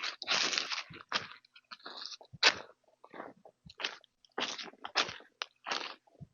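A series of short, irregular crunches, about one or two a second, the loudest about two and a half seconds in.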